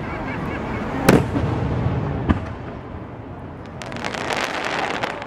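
Aerial fireworks: a loud shell burst about a second in and a smaller bang a second later, then a dense crackle of many small pops as a shell's clustered stars go off near the end.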